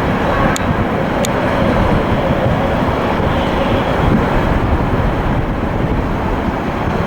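Jet airliner engines making a loud, steady rush of noise as an aircraft passes, with a couple of faint clicks about half a second and a second in.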